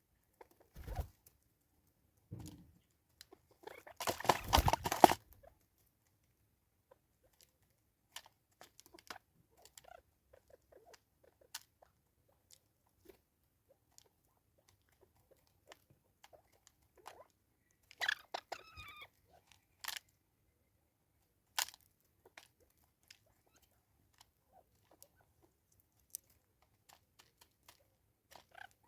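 Animals feeding at a backyard feeder: scattered sharp pecks and seed crunches, with a louder burst of crunching about four seconds in. A short, wavering call sounds about eighteen seconds in.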